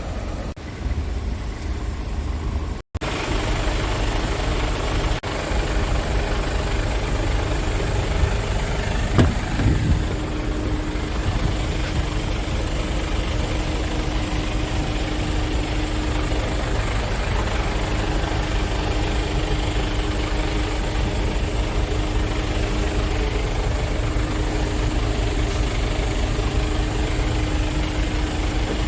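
Scania S tractor unit's diesel engine idling steadily, with a steady hum joining about ten seconds in.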